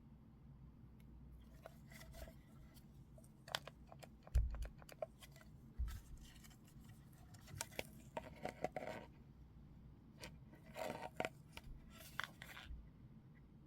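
Small items and packaging being handled: scattered clicks and taps, a dull thud about four seconds in, and two stretches of crinkling and rustling later on.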